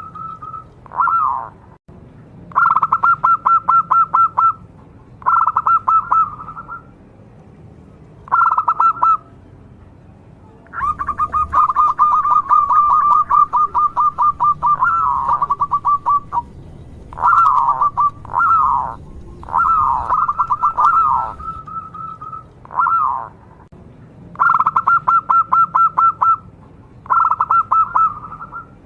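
Zebra doves (perkutut) cooing: a dozen or so phrases of rapid, evenly pulsed notes at one pitch, most short and one running about five seconds, sometimes overlapping as more than one bird calls.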